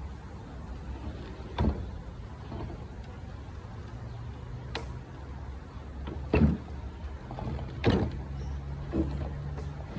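A refrigerator being handled and pushed about: several dull thumps and knocks, with one sharp click near the middle, over a steady low rumble.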